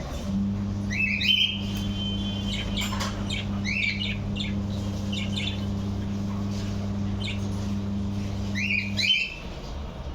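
Budgerigars chirping and squawking in short, scattered calls, over a steady low hum that stops about nine seconds in.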